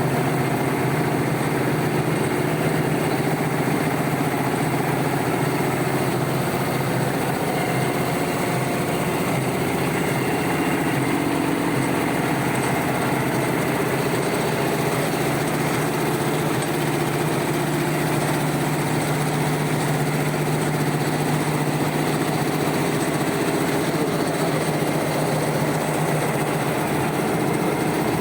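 High-speed warp knitting machine for net fabric running steadily at speed, an even, continuous mechanical clatter and hum.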